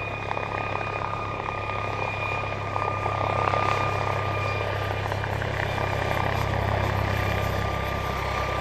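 A helicopter running steadily: an even low hum with a thin high whine held over a constant rush.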